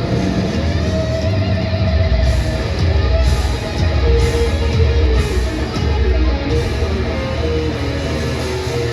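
Heavy rock music with electric guitars and drums, with bright cymbal-like bursts about once a second in the middle.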